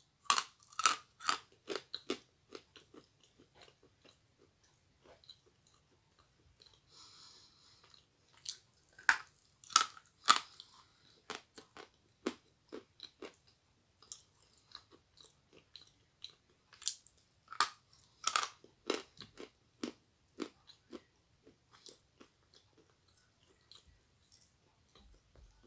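Close-up biting and chewing of a dry, chalky lump of white edible clay: sharp crunches in bursts, with softer grinding chews between them as the grainy pieces break down in the mouth.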